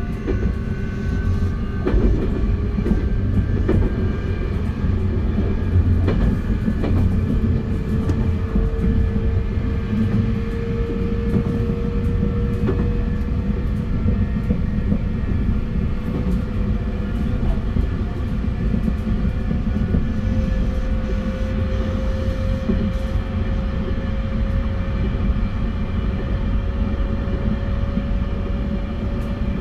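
JR West 271 series electric train running, with its Hitachi SiC inverter: a steady rumble of wheels on track with a few faint clicks. A thin motor whine rises slowly in pitch throughout as the train gathers speed.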